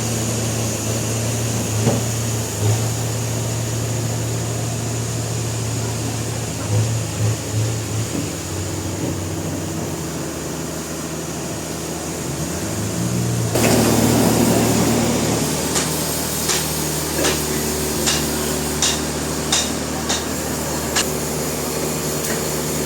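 Industrial sawmill machinery running with a steady hum. About halfway through it grows louder, and then sharp knocks come in a run, roughly one every second.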